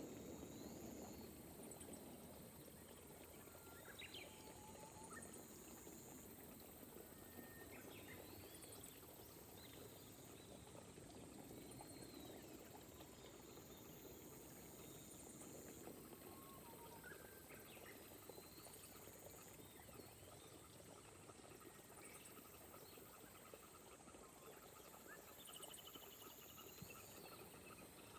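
Faint, gentle rain falling steadily over rice paddies, with a continuous high insect trill and scattered short bird chirps.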